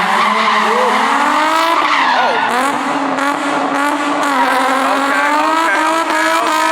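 A car's tyres squealing in a long, continuous skid, the pitch wavering up and down.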